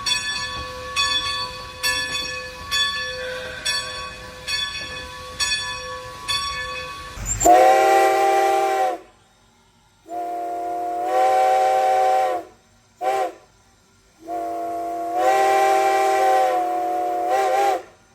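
Steam locomotive bell ringing steadily, about one stroke every two-thirds of a second. About seven seconds in, the bell stops and the chime steam whistle blows long, long, short, long: the standard grade-crossing signal.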